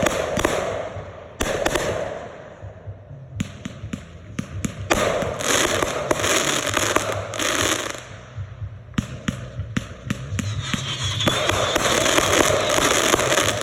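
Consumer fireworks going off: a string of sharp bangs, with long stretches of dense crackling about five seconds in and again over the last couple of seconds.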